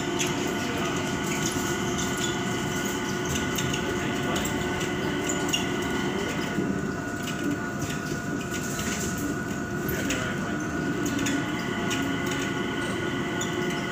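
Steady rumbling background noise with several faint constant whining tones running underneath; no single event stands out.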